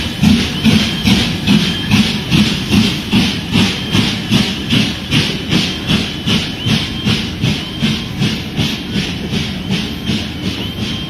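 Steam locomotive pulling away, its exhaust chuffing in a steady rhythm of about two beats a second, each beat a hissing puff. It fades slightly toward the end as it draws away.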